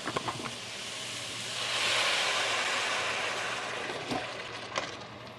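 Water hissing and steaming, swelling about two seconds in and then slowly dying away, with a few light clicks.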